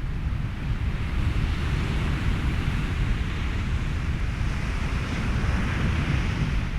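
Ocean surf and wind in a steady rushing wash, heavy in the low end, with a wave swelling from about a second in and easing off near the end.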